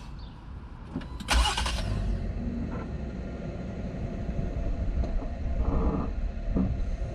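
Jeep Wrangler JL engine cranking and catching about a second in, then idling steadily, with a few short knocks later on.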